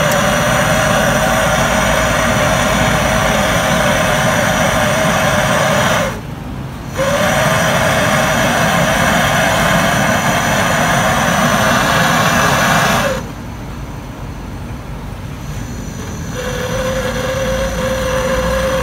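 Small electric pump running with a steady hum and hiss while drawing refrigerant or air out of a refrigerator's lines. It cuts out briefly about six seconds in, stops again about thirteen seconds in, and restarts a few seconds later at a slightly lower pitch.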